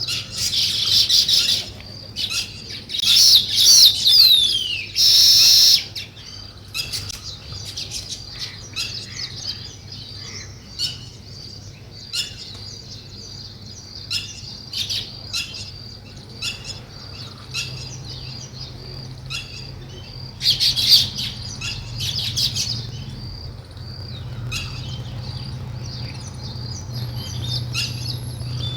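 Weaver birds chirping and chattering, with dense clusters of calls near the start, around 3 to 5 s in (some falling whistles among them) and again about 21 s in, and scattered single chirps between. A faint low steady hum lies underneath.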